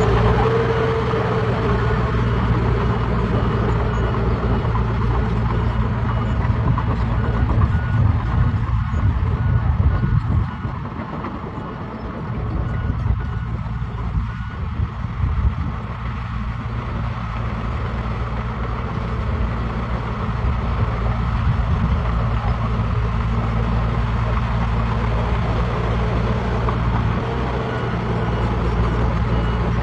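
Heavy diesel construction machinery running with a steady low engine drone, while a reversing alarm beeps in short, evenly spaced pulses through the first half.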